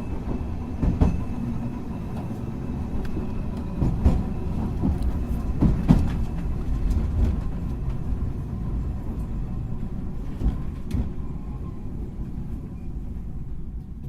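Hankai Tramway car 351 running on the rails: a steady low rumble with occasional sharp knocks from the wheels, a little quieter near the end.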